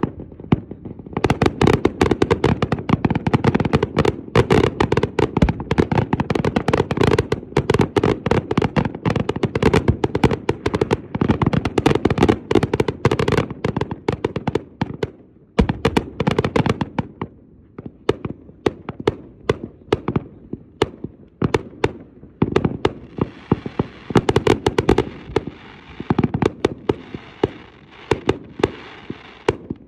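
Aerial fireworks display: a rapid, dense barrage of bangs and pops that thins to scattered bangs about halfway through, with a few seconds of hiss near the end.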